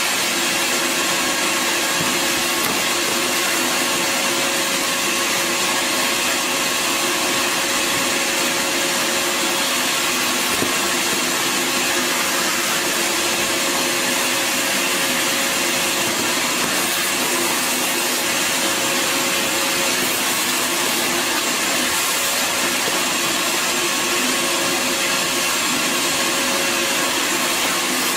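Bissell Garage Pro 12-amp wall-mounted wet/dry vacuum running steadily under suction, a constant rushing hiss with a steady motor whine.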